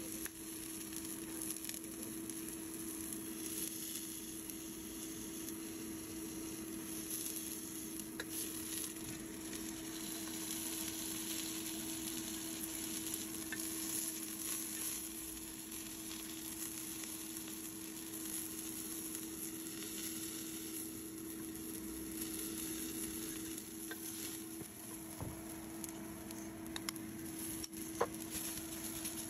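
Shrimp frying in hot oil in a nonstick pan: a steady sizzle, with a few light clicks of a metal spoon against the pan. A steady low hum runs underneath.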